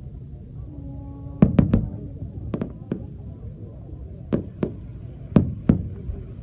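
Aerial fireworks shells bursting: about nine sharp bangs, mostly in quick pairs, over a steady low background rumble.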